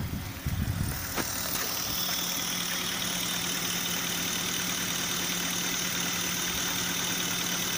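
BMW X5's M62 V8 engine idling steadily after a VANOS repair, with a single click about a second in.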